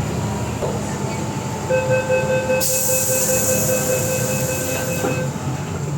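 MTR M-train electric multiple unit running with a constant rumble; about two seconds in, a steady high squeal starts and holds for about three and a half seconds, with a hiss over most of it: the light brake squeal this train is known for.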